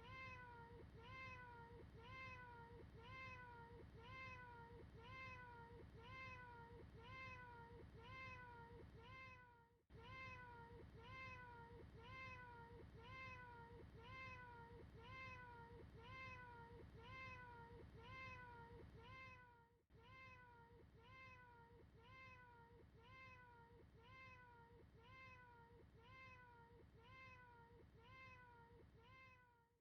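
A short, looped cat meow repeated about twice a second. Each call is identical and arches up and falls in pitch. The sound is faint and dips briefly about every ten seconds as the loop restarts.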